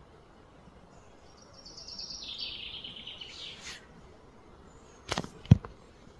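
A bird's rapid trill that steps down in pitch, starting about a second in and lasting about two seconds, over faint outdoor background noise. Near the end come two sharp knocks, the second the loudest.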